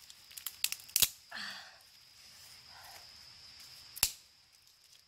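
A few sharp knocks or cracks: several small ones in the first second, a loud one about a second in, and another about four seconds in, with a brief scraping rustle just after the first loud one. A steady high-pitched tone continues in the background.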